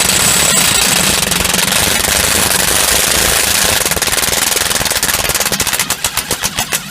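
DeWalt DCF894H 20-volt cordless impact wrench hammering continuously at full speed. Its separate blows become more distinct near the end.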